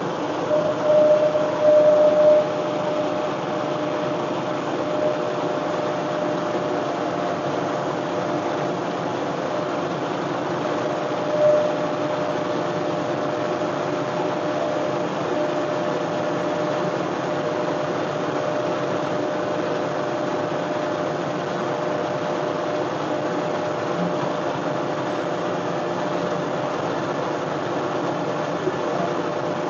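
John Deere 1025R compact tractor's three-cylinder diesel running steadily while driving its PTO-powered front snowblower, with a steady whine over the engine. Brief louder surges come about a second in and again around eleven seconds in.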